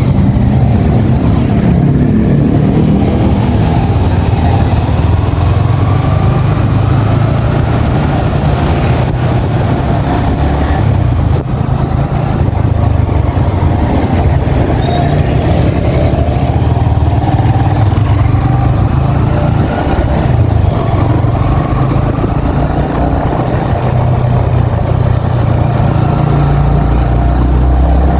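Yamaha XSR 155's single-cylinder 155 cc engine running while the bike is ridden, its pitch rising and falling several times as it accelerates and eases off.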